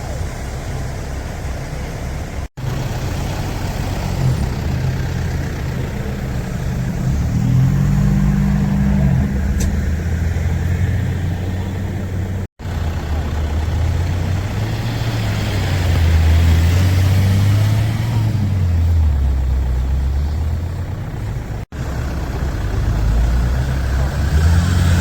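Off-road 4x4 vehicle engines running and revving, the engine note rising and falling several times. The sound breaks off for an instant three times, as separate shots are cut together.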